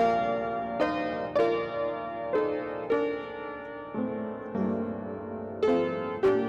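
Solo piano playing a slow piece, chords and single notes struck about once a second and left to fade.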